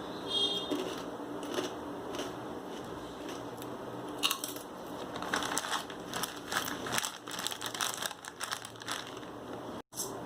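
Plastic snack packaging crinkling and rustling as it is handled, in irregular bursts of crackles that get busier in the second half.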